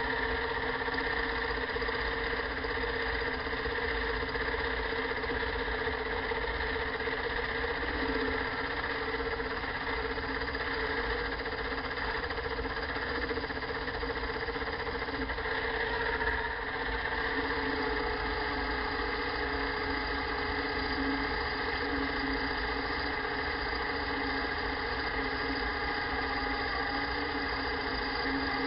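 Metalworking machine tool's motor running steadily at one speed, with a constant hum and whine.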